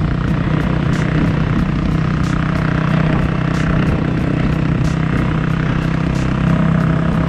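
Dirt bike engine running steadily under way, holding a near-constant engine speed, with wind rush over it.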